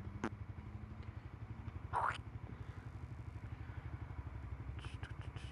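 Suzuki GSX-R125's small single-cylinder four-stroke engine idling at a standstill with a fast, even low pulse. There is a brief louder whoosh about two seconds in and a few light ticks near the end.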